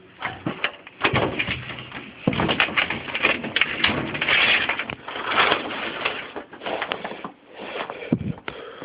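Irregular crunching of footsteps through deep snow, in uneven bursts that fade briefly near the end.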